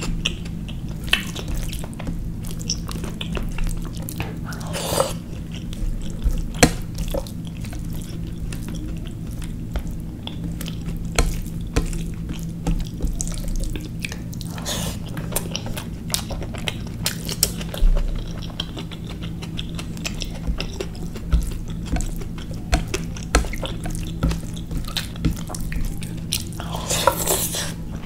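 Close-miked chewing and wet mouth sounds of curry, rice and naan eaten by hand: frequent sharp lip smacks and clicks, with a few longer wet smacks about five, fifteen and twenty-seven seconds in. A steady low hum runs underneath.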